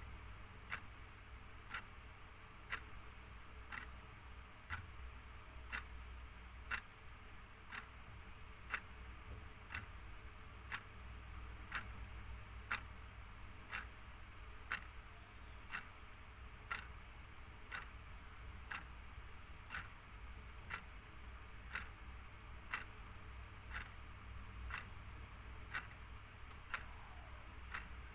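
Clock ticking steadily, about one tick a second, every other tick slightly stronger in a tick-tock pattern, over a faint low hum.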